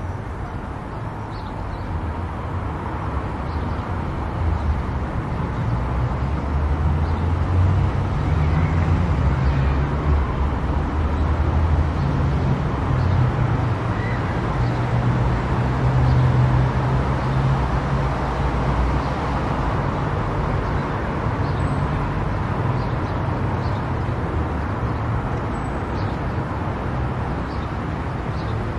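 Steady road noise of a car travelling on an expressway: a low rumble of tyres and engine that builds over the first few seconds and eases slightly toward the end.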